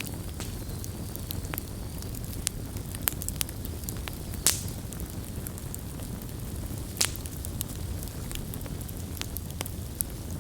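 Wood campfire crackling, with a steady low rumble of burning and scattered sharp pops, the loudest about four and a half seconds in and another about seven seconds in.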